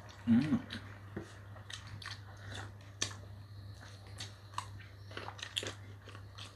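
Close-up eating sounds of people chewing chicken biryani: wet chewing, lip smacks and small clicks scattered throughout. A brief hummed voice sound comes about half a second in.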